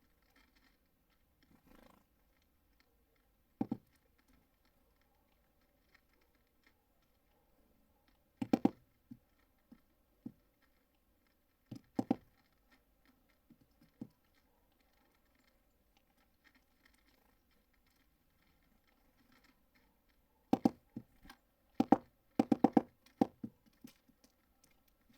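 Birds at a feeder: sharp taps and knocks of beaks and feet on the feeder as they peck seed and land, coming singly and in quick clusters with quiet between.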